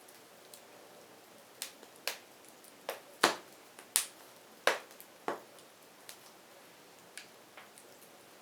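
Firewood burning with sharp, irregular crackles and pops over a faint hiss; the loudest pops come between about three and five seconds in.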